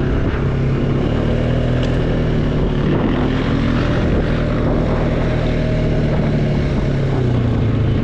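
ATV engine running steadily while riding, its pitch shifting slightly with the throttle.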